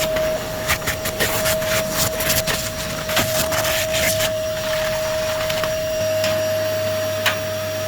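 A small motor running steadily with a constant whine, with many sharp clicks and taps of something being handled, thickest in the first half.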